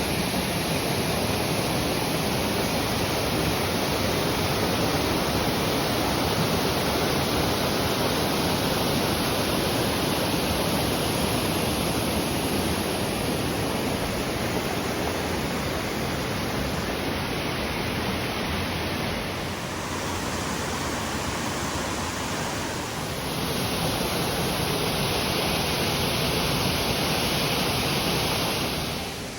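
Waterfall pouring: a steady rushing noise, dipping slightly for a few seconds about two-thirds of the way through.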